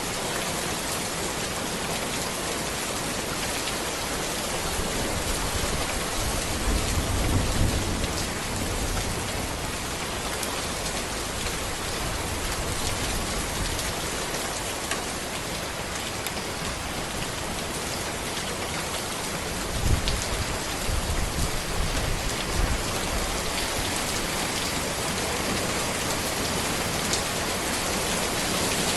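Steady rain falling on a road, an even hiss of countless drops. Two brief low rumbles rise under it, about a quarter of the way in and again about two-thirds in.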